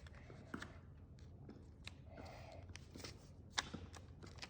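Sheet of paper being folded and creased by hand: faint rustling with a few sharp crinkles, the loudest about three and a half seconds in.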